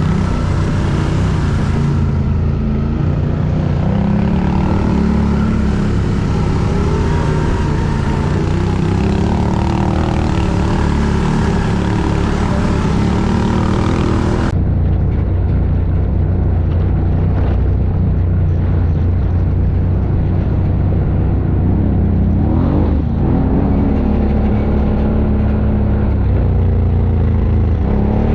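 ATV (quad bike) engine running under way on an off-road ride, its speed rising and falling with the throttle. About halfway, the high hiss suddenly drops away.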